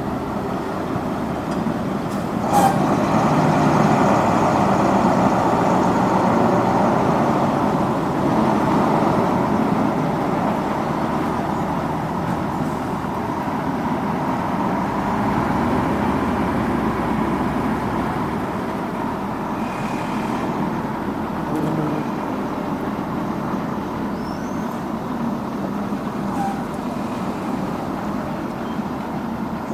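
Heavy road-paving machinery and trucks running steadily during asphalt laying. A sharp knock comes about two and a half seconds in, after which the machinery is louder for several seconds.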